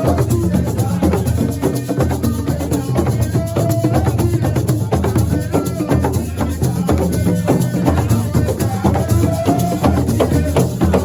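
Live assiko percussion music: drums and rattles playing a busy, fast rhythm, with a voice rising over it now and then.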